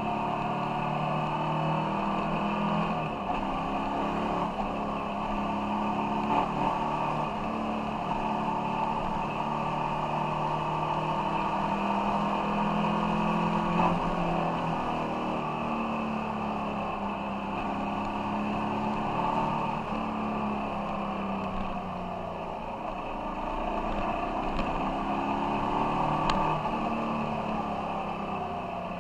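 Ducati Monster 696's air-cooled L-twin engine running as the motorcycle is ridden, its pitch rising and falling with the throttle and gear changes, dropping around two-thirds of the way through and rising again near the end.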